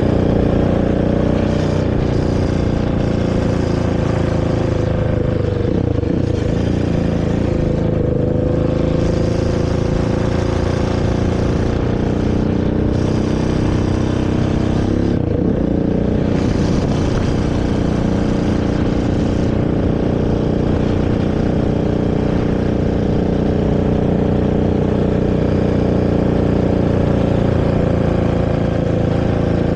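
Honda TRX450R's carbureted single-cylinder four-stroke engine running steadily through its stock exhaust while riding. Its pitch drops and climbs back about six seconds in and again about fifteen seconds in.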